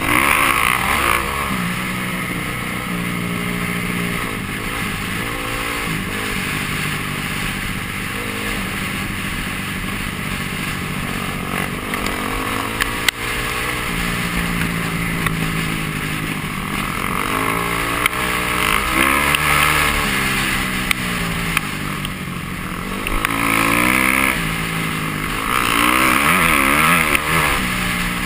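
Dirt bike engine running hard on a trail, its pitch rising and falling again and again as the throttle is opened and closed through the gears. There is one sharp knock about halfway.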